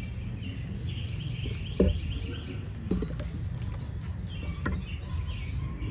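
Songbirds singing: runs of quick, repeated chirping notes about a second in and again near the end, over a low steady rumble. A few short knocks sound, the loudest about two seconds in.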